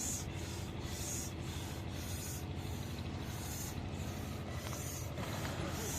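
Air pump inflating an inflatable raft's pontoons: rhythmic hissing strokes of air, a little over two a second, even and unbroken.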